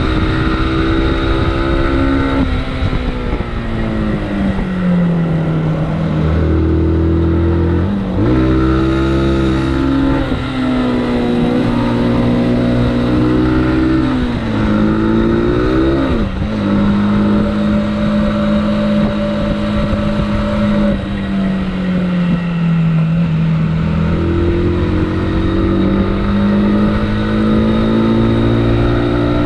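Motorcycle engine heard on board while riding. Its pitch climbs and falls as the bike accelerates and eases off, with a few sudden jumps in pitch where the rider changes gear.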